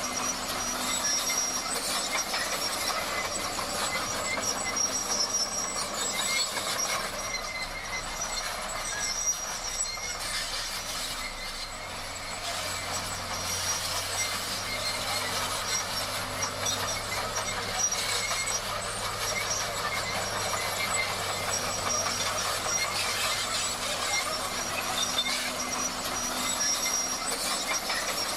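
Crawler bulldozer working, its engine running steadily under a high, thin squeal from the steel tracks.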